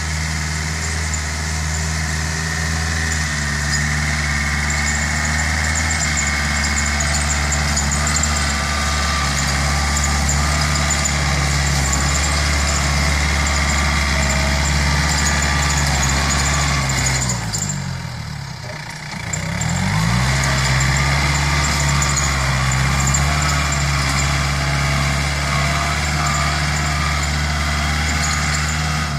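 Yanmar EF494T tractor's diesel engine running steadily. About two-thirds of the way through, the engine speed sinks over a second or so and then climbs back up to its steady note.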